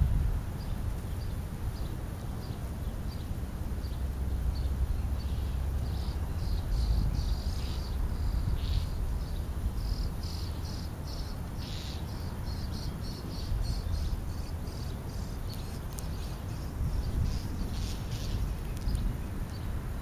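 Rapid run of short, high chirps and clicks from a bird feeding right at the microphone, several a second and busiest in the middle, over a low steady rumble.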